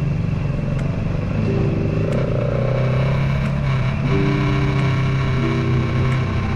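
Suzuki Raider 150 Fi single-cylinder motorcycle engine running steadily under way.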